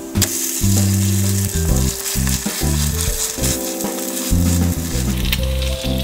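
Shredded potato pancake sizzling in hot oil in a frying pan. The sizzle grows louder just after the pancake is flipped near the start. Background music plays underneath.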